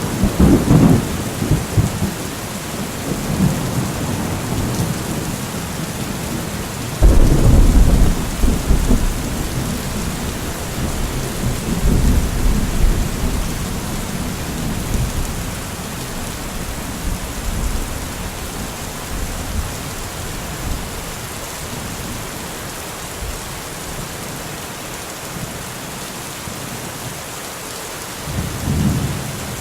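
Steady rain hissing, with rolling thunder: a sudden loud clap about seven seconds in that rumbles off over a couple of seconds, and lighter rumbles near the start, around twelve seconds and near the end.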